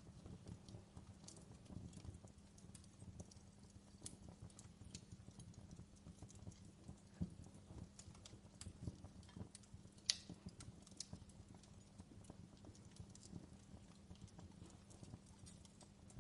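Fireplace crackling faintly: irregular sharp pops and snaps over a soft low rumble, with one louder pop about ten seconds in.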